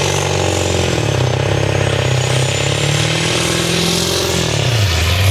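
Pulling truck's engine running loud and hard under load while it drags the weight sled, its pitch dropping about a second in and again near the end, with a faint high whine above it.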